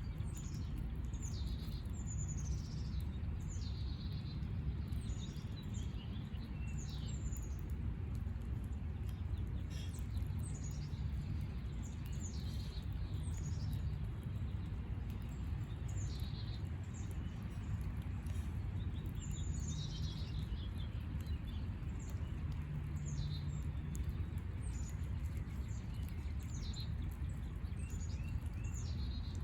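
Small backyard birds chirping over and over, many short high chirps that sweep downward, scattered through the whole stretch. Beneath them runs a steady low rumble.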